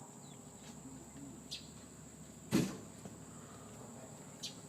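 A single sharp knock about halfway through, with a faint click before it and another near the end.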